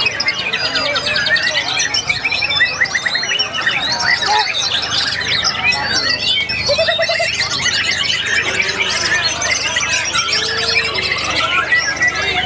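Many white-rumped shamas (murai batu) singing at once, a dense, unbroken mix of overlapping whistles, rapid trills and chirps.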